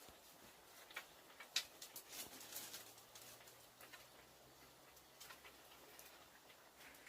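Faint, scattered clicks and taps, the sharpest about a second and a half in, over a faint low hum for a few seconds in the middle.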